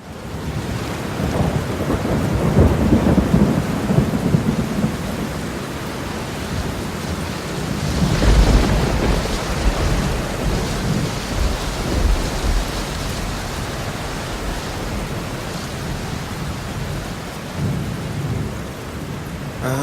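Steady rain with rolling thunder, the rumble swelling a few seconds in and loudest about eight seconds in.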